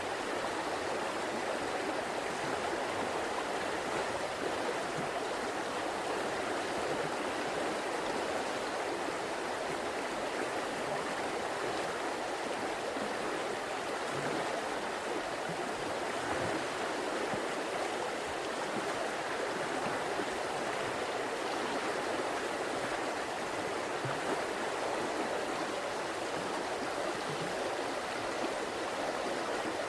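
River water running steadily over rocks, an even rushing and burbling with no pauses.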